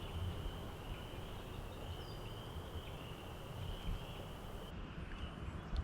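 Woodland ambience: a steady, high-pitched animal chorus with a low rumble beneath, and a faint bird call about two seconds in.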